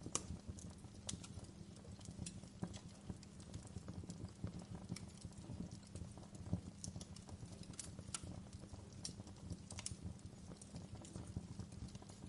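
Wood fire burning in a fireplace, crackling with irregular sharp pops and snaps, a dozen or so stronger ones among many small ticks, over a low steady rumble of the flames.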